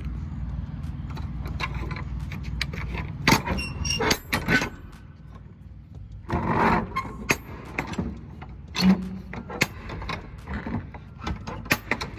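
Idling truck engine with a steady low rumble that drops away about three seconds in, followed by scattered metallic clicks, clanks and knocks.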